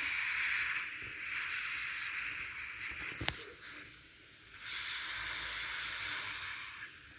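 Water pouring in a steady hiss, dropping away briefly about four seconds in and then running again, with a single sharp click just after three seconds.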